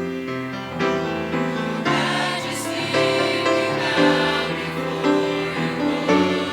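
A mixed choir singing a gospel worship song in harmony, with sustained chords that change every second or so.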